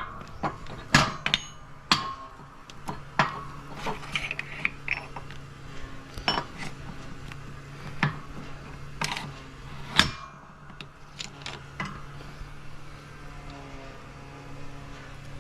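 Steel transmission gears and synchro parts knocking and clinking together as they are handled and fitted, a dozen or so sharp clicks spaced a second or so apart, some with a short metallic ring, over a low steady hum.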